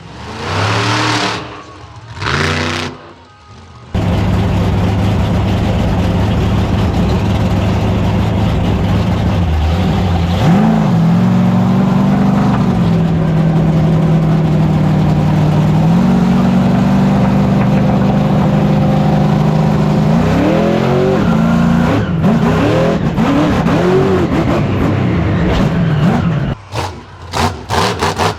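Monster truck engine revving in two short blips, then held at high revs for about twenty seconds with its pitch stepping up and down. Near the end the revs rise and fall several times in quick succession before breaking into short choppy blips.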